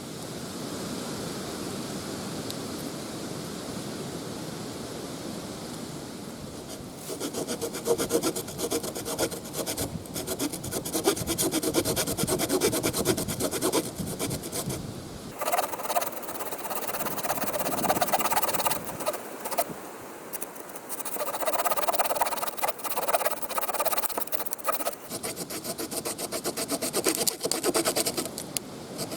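Pocket-knife wood saw cutting through wood in quick back-and-forth strokes, starting after several seconds of steady noise.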